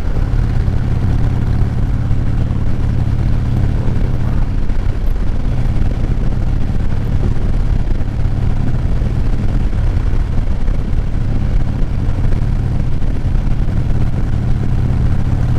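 Motorcycle engine running steadily while riding, with an even rush of wind and road noise over it.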